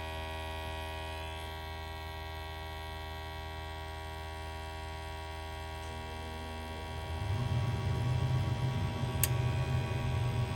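Gas furnace running with a steady electrical hum. About seven seconds in its fan comes on and adds a louder, rougher low rumble, and a sharp click follows near the end.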